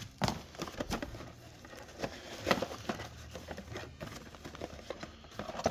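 Handling noises: irregular clicks, knocks and crinkling rustles, typical of parts and their packaging being handled.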